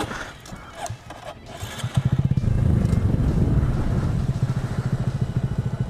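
Motorcycle engine idling with an even low pulse. It is fainter at first and comes back louder and steady about two seconds in.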